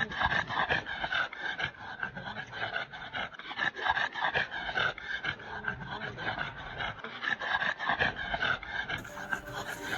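Golden retriever panting, with quick, rhythmic breaths in and out.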